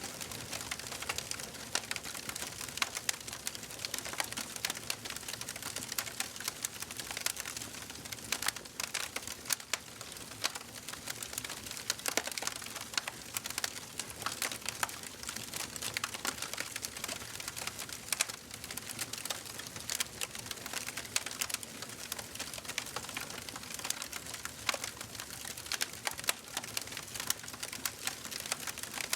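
Wood fire burning in a fireplace: dense, irregular crackling and popping of the logs over a soft steady hiss of the flames.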